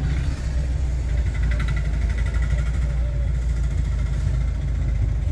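Low, steady engine and road drone of a diesel car, heard from inside the cabin while driving. A fainter, evenly pulsing buzz comes in for a second or so about a second in.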